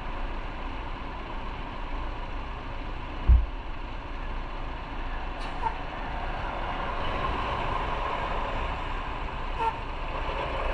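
Road and traffic noise from a motorcycle ride, a steady hiss with no clear engine note. There is one sharp low thump about three seconds in.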